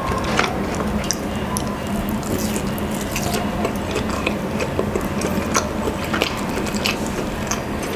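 Close-miked wet chewing and mouth clicks from eating tender rotisserie chicken. Irregular small smacks and squelches come several times a second, along with soft sounds of the meat being pulled apart by hand.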